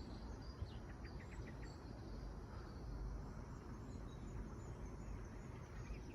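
Faint outdoor background with small birds chirping now and then, including a quick run of about six chirps about a second in, over a low steady rumble.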